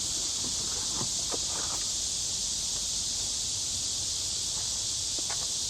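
Steady high-pitched insect chorus, with a few faint taps.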